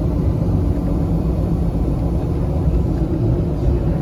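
Steady low rumble of a lifted 2011 GMC 2500 HD's 6.6-litre Duramax V8 diesel cruising at road speed on 40-inch mud-terrain tyres, heard from inside the cab, with a faint steady hum over it.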